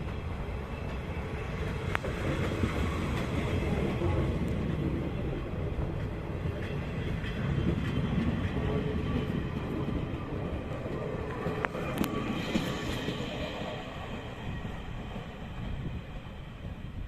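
A train running on the rails: a steady low rumble with a few sharp clicks from the track and wheels.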